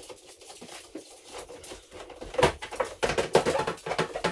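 A quick run of light clicks, taps and knocks, starting about two seconds in and getting louder toward the end, like hard objects being handled and set down.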